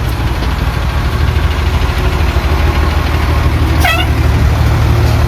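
Fire engine running steadily on the road, a loud low drone of engine and road noise. A brief high chirp sounds about four seconds in.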